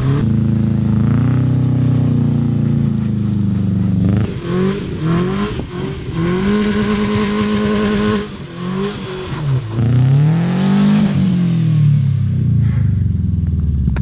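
Subaru engine and exhaust revving up and down as the car is driven hard, with several quick rising sweeps, a steady high-rev pull held for about two seconds midway, then a brief drop, another climb and a falling-off of revs near the end.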